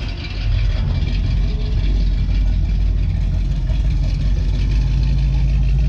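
A car engine idling steadily, with a low hum that grows stronger about two-thirds of the way through.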